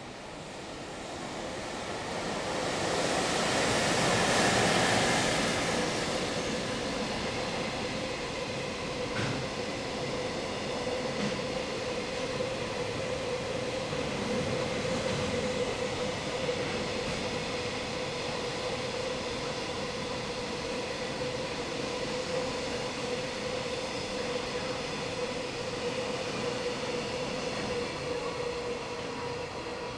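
JR Freight container train of flat wagons passing at speed. The locomotive goes by loudest about four to five seconds in, then the wagons run past in a long steady rumble with a steady whine and a few rail-joint clacks.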